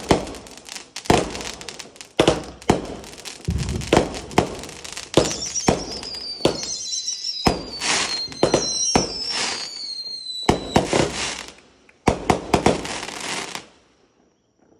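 Consumer fireworks going off: a rapid run of sharp bangs and crackle, with several falling whistles in the middle, stopping shortly before the end.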